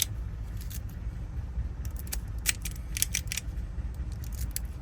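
Small metallic clicks and jingles of a key and lock-cylinder parts being handled, a handful of sharp ticks, a short cluster of them about three seconds in, over a steady low rumble.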